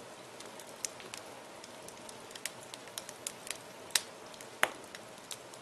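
Wood fire burning in a fireplace: a steady soft hiss with frequent sharp crackles and pops, the two loudest snaps coming about four seconds and four and a half seconds in.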